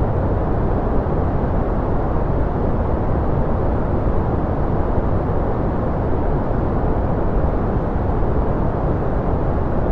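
Steady, unchanging noise from a white-noise track. It is weighted toward the low end with little treble, so it sounds like a deep, even rush rather than a bright hiss.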